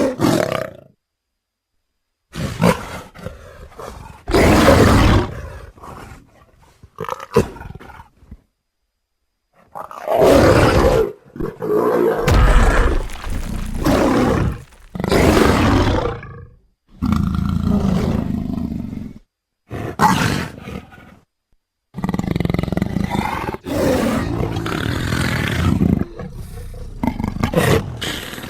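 Big-cat roars and growls played one after another: about a dozen separate calls of varying length, with short silent gaps between them.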